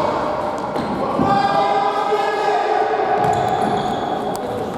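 Indoor futsal game sounds in an echoing sports hall: players' and spectators' voices, with one drawn-out call held for about three seconds from about a second in, and the ball thudding on the court floor.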